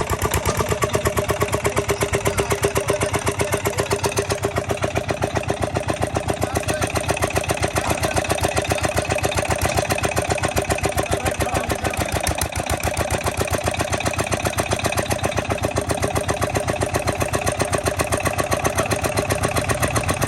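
Petter diesel engine running a small tubewell pump, going steadily at an even speed with a rapid, regular exhaust beat.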